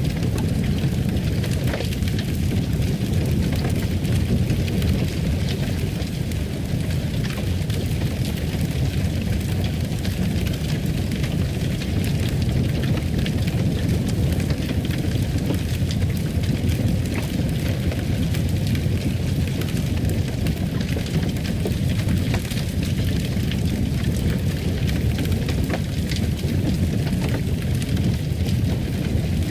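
Fireplace fire burning steadily: a low rumble with a scatter of small crackles and pops.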